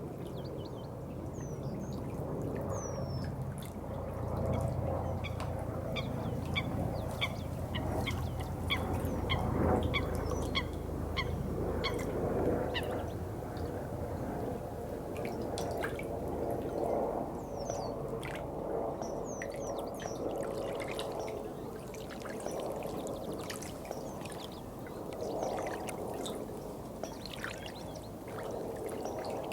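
Water trickling and gurgling steadily. A bird repeats a short note about twice a second through the first half, with a few brief high chirps.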